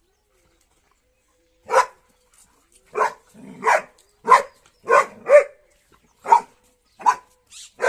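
A dog barking: about nine short, loud single barks at irregular intervals, starting about two seconds in.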